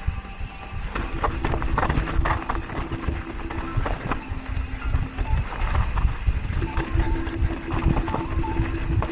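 Irregular knocking thumps, like hoofbeats or steps, with a steady low hum that comes and goes twice.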